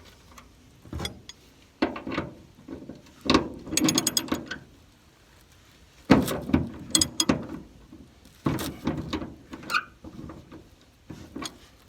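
Ratchet wrench with a T55 Torx bit turning a truck bed bolt, in several short bursts of clicking strokes with pauses between them. The bolt's Torx head is starting to strip.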